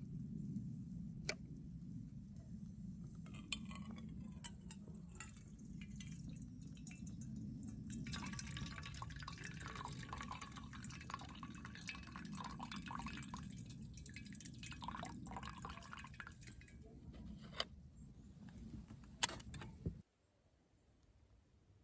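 Coffee being poured and dripping into a cup, a trickling patter through the middle stretch, with a few light clinks. Underneath runs a low steady rumble that cuts off suddenly near the end.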